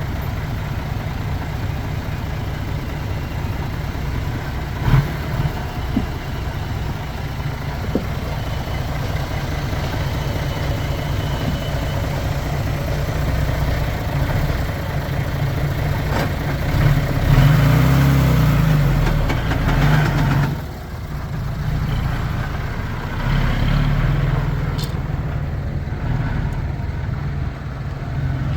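Diesel engine of heavy earthmoving machinery running steadily; it grows louder about two-thirds of the way through, drops off suddenly, then carries on running.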